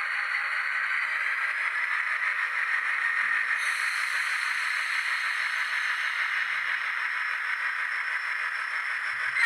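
HO-scale model train running on the track, a steady rolling hiss and rattle of wheels and motor.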